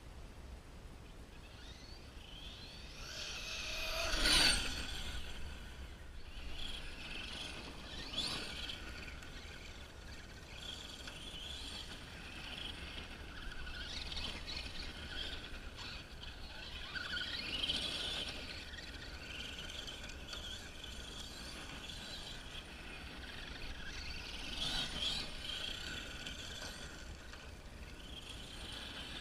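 Electric motor of a Serpent Cobra MT-E 1/8-scale monster truck on 6S whining as it accelerates and slows while being driven around. It comes close and grows louder four times, most of all about four seconds in.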